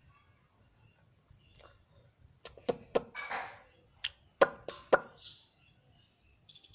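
Indian ringneck parrot making a few sharp clicks and a short raspy hiss, in two clusters about a second and a half apart.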